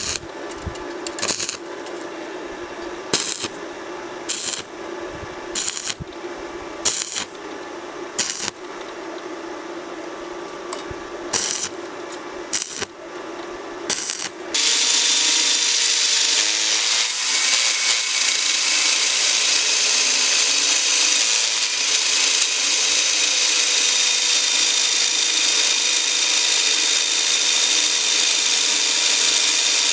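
A steady hum broken by a series of sharp metallic clicks about a second apart. About halfway a power tool starts and runs steadily under load: a loud, even hiss with a steady whine.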